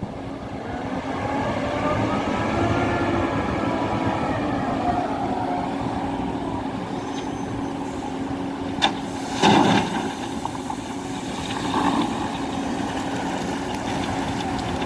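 Scania 164 580 truck's V8 diesel engine running with a steady rumble, with a short sharp knock about nine and a half seconds in and a smaller one a couple of seconds later.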